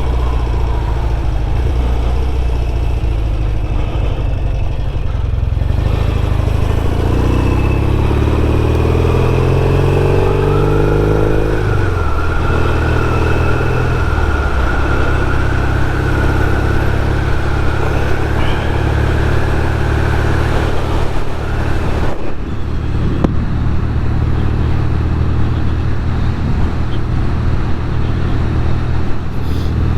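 Norton Commando 850 Mk2's air-cooled parallel-twin engine running on the road. It rises in pitch as the bike accelerates for several seconds, drops abruptly about twelve seconds in at a gear change, then runs steadily.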